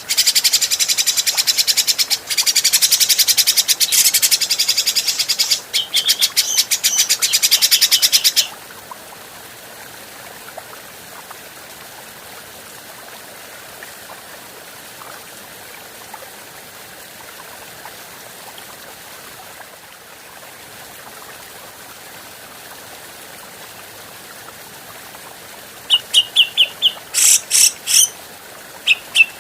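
Grey-cheeked bulbul (cucak jenggot) giving a loud, fast chattering rattle of high notes for about eight seconds, then a long stretch of faint hiss, and a short burst of sharp calls near the end.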